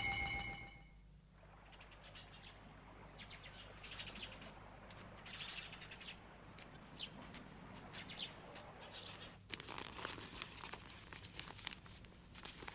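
A ringing, bell-like tone fades out in the first second, then faint, scattered bird chirps.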